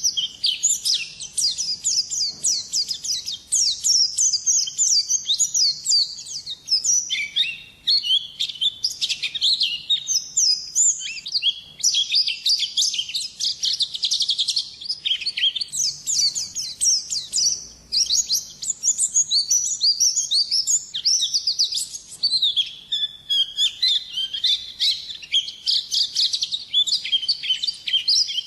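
A white-eye (pleci) singing a long, unbroken 'ngalas' song: rapid, high twittering chirps and trills that run on with only brief breaks.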